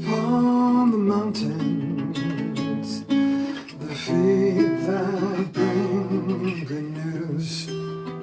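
Acoustic guitar playing the instrumental introduction to a hymn, with held notes changing about once a second.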